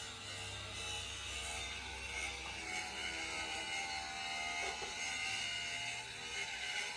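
A power tool's motor running with a steady whine.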